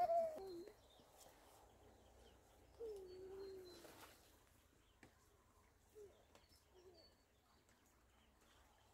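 Faint birds calling: a few short, high chirps and one lower call that falls in pitch over about a second, about three seconds in.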